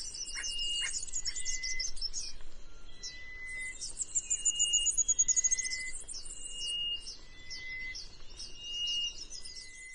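Songbirds chirping in fast, high trills, some runs falling in pitch, with short steady whistled notes repeating about once a second beneath them.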